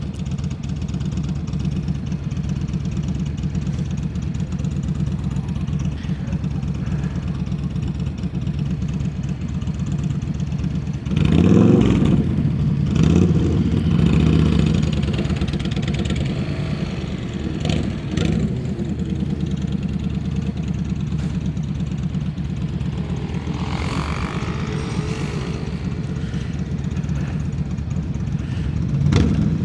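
Motorcycle engine running steadily at low revs in slow traffic. About eleven seconds in it gets louder, with the pitch rising and falling as the throttle opens, and it picks up again near the end.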